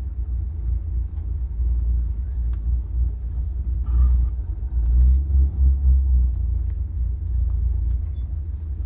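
Chevrolet Impala's 300-horsepower 327 small-block V8 running at low speed with a deep, steady rumble that swells for a couple of seconds around the middle.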